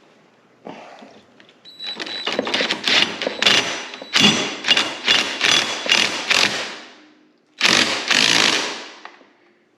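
Hand work on a fastener: a rapid run of sharp metallic clicks and knocks as a 10 mm nut is spun onto its bolt, then a louder burst of handling noise that fades.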